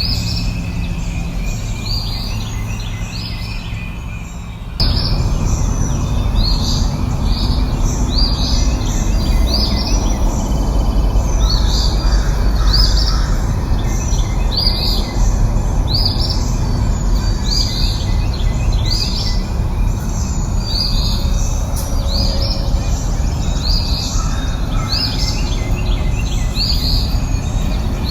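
Birds chirping: a short, high call repeated about once a second over a steady low rushing background, which gets suddenly louder about five seconds in.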